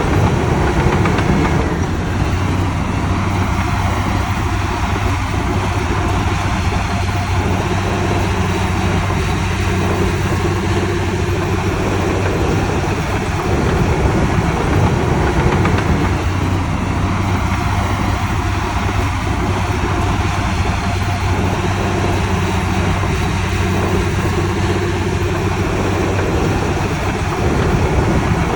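Heavy diesel earthmoving machinery engine running steadily at a fairly constant speed, with small swells in loudness now and then.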